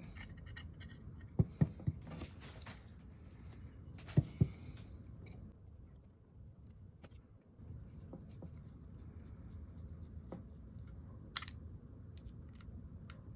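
Small metal fishing-reel parts being handled: a few sharp clicks and light taps about a second and a half in, around four seconds in and near the end, with faint scraping and ticking between.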